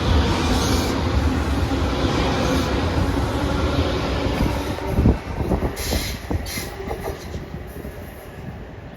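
Long Island Rail Road train running through the station, a heavy steady rumble of wheels on rail that fades away. About five to seven seconds in come a run of sharp clacks and a few short high-pitched bursts before the sound dies down.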